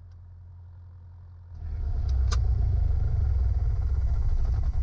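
Strong gusty wind buffeting the microphone, an irregular low rumble that cuts in about a second and a half in, after a faint low hum.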